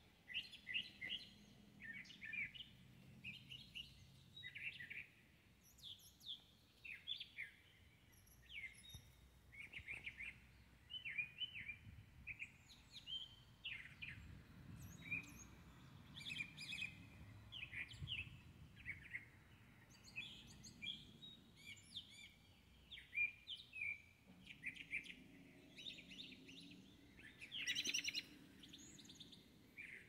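Small birds chirping and calling over and over: many short, quick chirps and brief call phrases, one after another, with a faint low rumble underneath.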